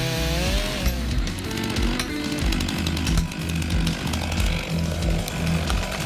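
Chainsaw engine running through a cut, its pitch falling in the first second, over background music with a steady beat.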